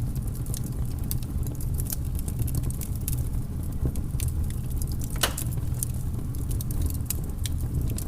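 Wood fire burning in a fireplace: irregular crackles and small pops over a steady low rumble, with one louder pop about five seconds in.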